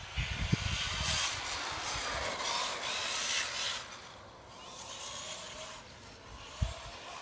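Tekno SCT410 1/10-scale electric short course RC truck driving on loose ground: tyres scrubbing and hissing, with a faint motor whine rising and falling as the throttle changes, then a short thump near the end.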